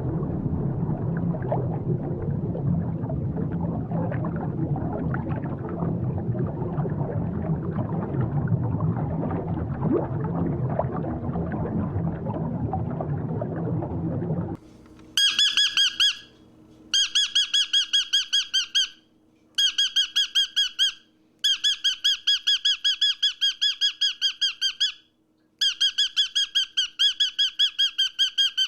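A steady rumbling noise, then, from about halfway, an animal's rapid high squeaky chirps, about five a second, in bouts of two to three seconds with short pauses between.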